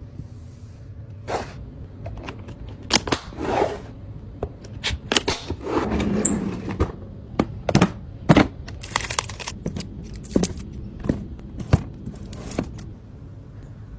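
Food containers and packages being handled and set down while arranging a fridge: an irregular run of knocks, clicks and light clatter, with stretches of rustling about three and six seconds in.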